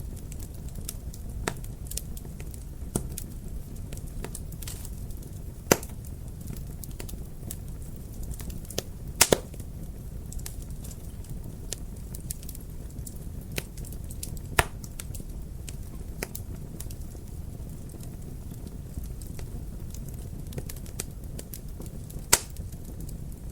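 Wood fire crackling in a fireplace: a steady low rumble of burning with scattered sharp pops and snaps, a few louder ones about six, nine, fifteen and twenty-two seconds in.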